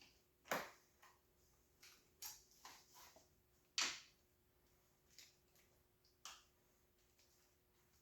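Scattered light clicks and knocks of hand tools and parts being handled, a few to each second or so and irregular, the two loudest about half a second and nearly four seconds in, over a faint steady hum.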